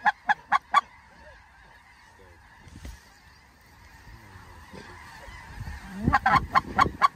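Snow goose calling: rapid, evenly spaced high honks at about four or five a second, loud for the first second and again from about six seconds in, with fainter goose calls in between.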